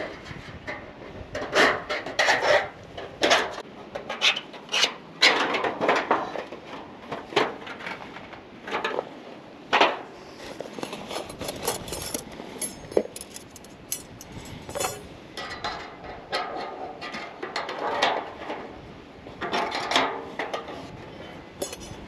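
Irregular knocks, clatters and rubbing, as of hard objects being handled and set down, some of them wooden, with no steady rhythm.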